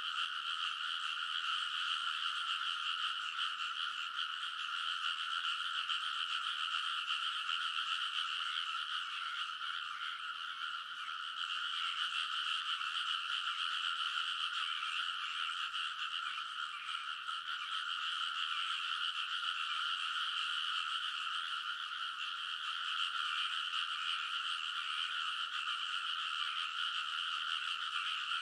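A large chorus of frogs in a rice paddy, many calling over one another in a continuous, noisy din with no pauses.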